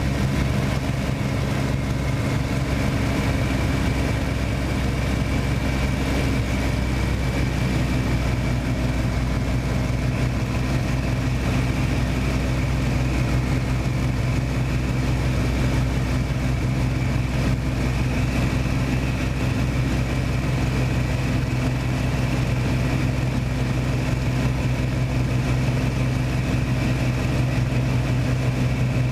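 An engine running steadily at a constant speed, as a continuous even drone.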